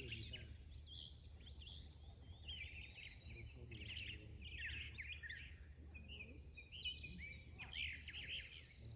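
Several birds chirping and twittering in quick, overlapping calls over a steady low background hum. About a second in, a thin high steady whine comes in and lasts about two seconds.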